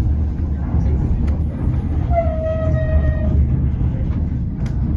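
White Pass & Yukon Route train running with a steady low rumble, and a horn sounding once for about a second, falling slightly in pitch, about two seconds in.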